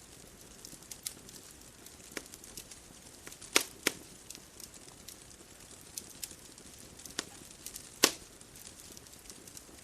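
Bonfire crackling: irregular sharp pops and snaps, the loudest about three and a half seconds in and again about eight seconds in, over a faint steady hiss.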